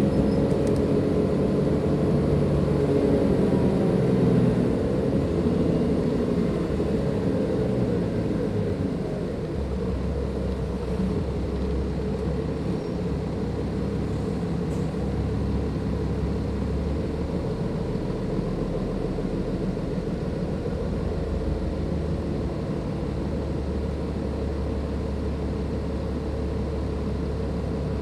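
Cummins ISLe diesel engine of a Dennis Enviro 500 double-decker bus, heard on board. It works harder for the first several seconds, eases off with its pitch dropping about eight seconds in, then runs steadily at low revs with a deep hum.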